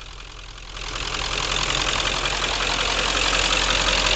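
Ford Power Stroke diesel engine idling steadily. The sound drops away suddenly at the start and swells back up over about a second.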